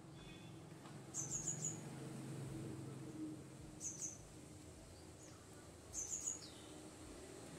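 A bird chirping in short runs of three or four quick high notes, repeated every two to three seconds, with a few fainter falling notes between them, over a faint low hum.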